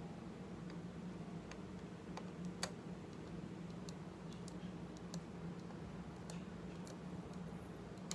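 Faint, scattered clicks of a flathead screwdriver working the bleed screw on a dirt bike fork cap, over a steady low hum.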